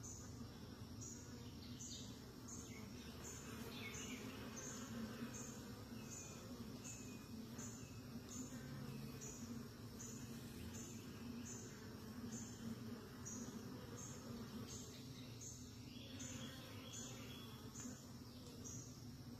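Faint, steady low hum of honeybees at the hive. Over it an insect chirps in an even rhythm, about three chirps every two seconds, with a few short bird calls now and then.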